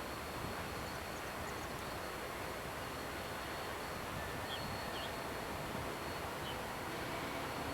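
Steady outdoor background noise, with a few faint bird chirps around the middle.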